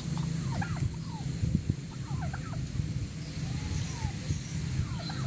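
Birds calling in scattered clusters of short, quick chirps, the busiest burst about two seconds in, over a steady low hum.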